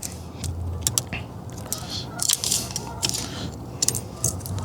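Pliers working a small metal lock piece on a steering column: irregular light metallic clicks and scrapes.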